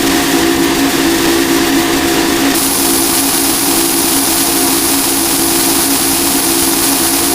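Harsh noise music: a loud, dense wall of noise over steady low drone tones. About two and a half seconds in the texture shifts abruptly and a steady high whine appears.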